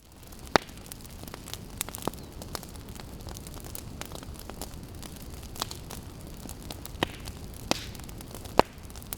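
Outdoor wood campfire crackling: a steady low rumble of flames with sharp, irregular pops and snaps of burning wood.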